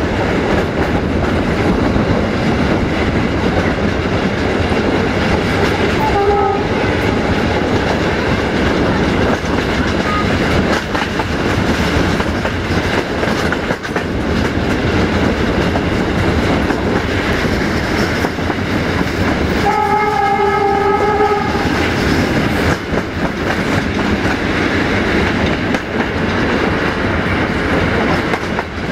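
Passenger train running, heard from aboard, with wheels clattering over the rail joints. The locomotive's horn sounds a short blast about six seconds in and a longer blast of about a second and a half about twenty seconds in.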